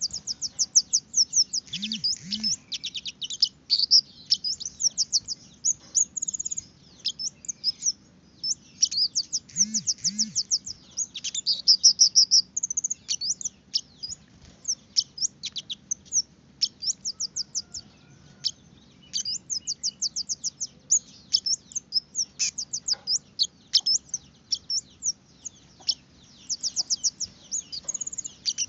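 Kemade (baret merah) songbird singing: fast trains of high, sharp chirps in bursts of a few seconds, repeated over and over with short pauses. It is the kind of song played as a lure to get caged birds of the same kind singing.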